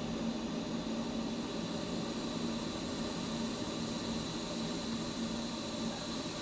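TIG welding arc on stainless steel exhaust tubing: a steady buzzing hiss with a constant low hum.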